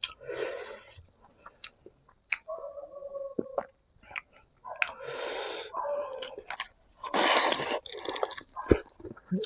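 Close-up mouth sounds of someone eating braised pig feet: irregular wet chewing and biting with sharp clicks. There is a brief steady hum about a third of the way through, and a louder burst of noise about seven seconds in.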